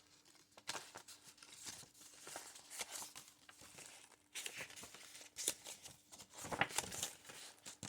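Faint rustling and crinkling of paper as the pages of a handmade junk journal are handled and turned, with scattered soft flicks and taps.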